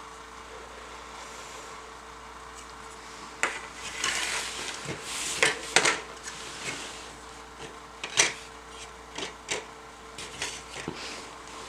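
Plastic model-kit parts being handled: after a quiet start, a stretch of rubbing and rustling about four seconds in, with scattered light clicks and taps as the parts trees are moved and set down.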